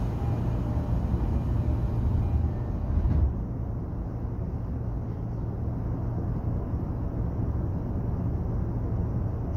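Running noise inside an electric train car: a steady low rumble of wheels on rails and running gear. There is a louder thump about three seconds in, after which the higher hiss drops away.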